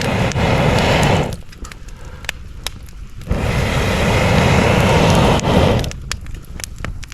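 Wood fire crackling with sharp pops, twice drowned by a loud rush of air with a low rumble, each rush lasting a couple of seconds.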